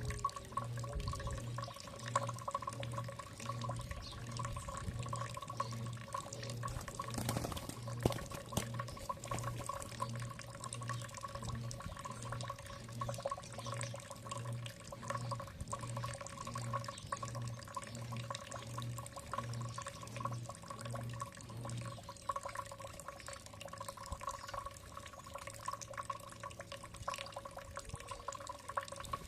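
Water trickling and dripping with fine clicks, over a steady hum. A low, pulsing throb under it stops about 22 seconds in.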